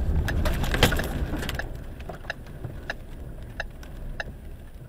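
Car collision recorded from inside a vehicle: a sharp crunching impact a little under a second in, over low vehicle rumble. After that it goes quieter, with a steady ticking about every two-thirds of a second.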